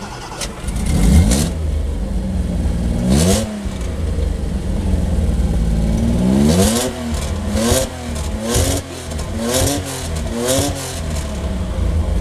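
Toyota 2000GT's straight-six engine idling and being revved: a rev about a second in, another about three seconds in, then five quick throttle blips about a second apart, each rising and falling in pitch.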